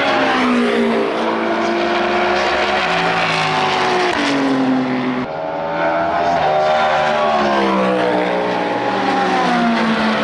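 Race car engine at full racing revs, its pitch climbing and falling as it accelerates and brakes. About four seconds in the pitch drops sharply as a gear changes. Just after five seconds the sound cuts abruptly to another run of rising and falling revs.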